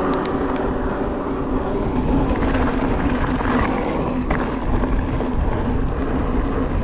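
Riding noise from an electric mountain bike on a dirt trail: wind rushing over the microphone with tyre and bike rattle, and a steady low hum underneath.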